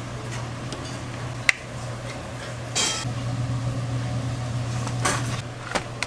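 Kitchen clatter of dishes and utensils: a sharp click about a second and a half in and short scrapes and knocks later, over a steady low hum.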